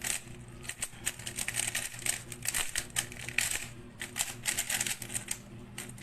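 Rubik's cube being turned rapidly by hand, its layers clicking and clattering in quick runs with short pauses between them.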